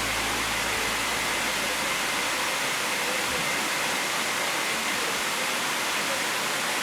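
Steady rushing of water from the cascades, an even hiss-like noise with no breaks.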